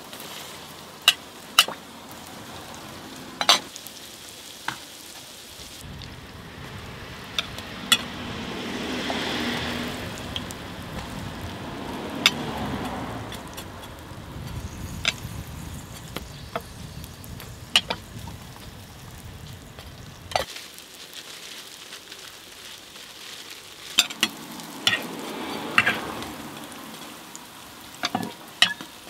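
Hotteok frying in a shallow pool of oil on a flat griddle: a steady sizzle that swells louder twice as fresh dough is pressed flat into the hot oil. Sharp clinks of the metal presser and spatula striking the griddle are heard throughout.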